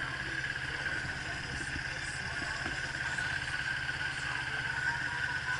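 Motorcycle engine running steadily while riding, a low even rumble with a constant hiss over it.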